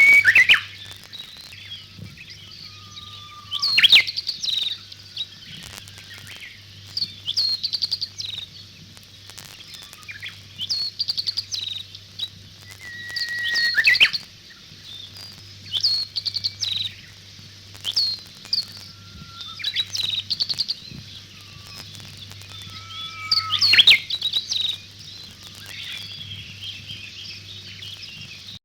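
Wild birds singing: short chirping phrases and brief whistled notes repeating every two to four seconds, over a faint steady low hum.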